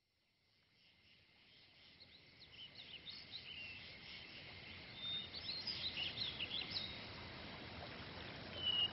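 Birdsong: many short high chirps and whistles over a soft steady hiss, fading in gradually from silence.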